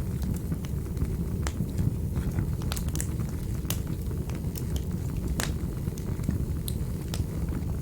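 Wood fire burning in a fireplace: a steady low roar of the flames with irregular sharp crackles and pops.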